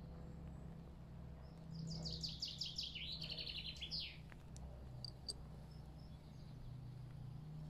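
A songbird sings one fast phrase of about two and a half seconds: a run of quick high notes drops into a lower trill and ends on a falling note. A faint steady low rumble sits underneath.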